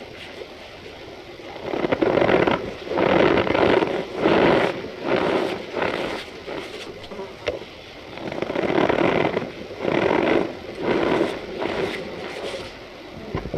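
Cornstarch powder being squeezed and crushed, squeaky crunching in a run of short bursts that starts about two seconds in and goes on until near the end.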